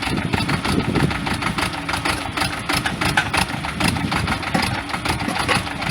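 Sonalika DI-30 Baagban tractor's diesel engine running steadily, with a rapid, even clatter.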